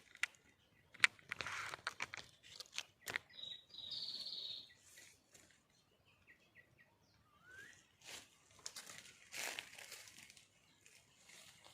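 Rustling and crackling, as of dry leaves, with a few brief high bird calls: one thin held whistle a few seconds in, then some short notes and a quick rising note.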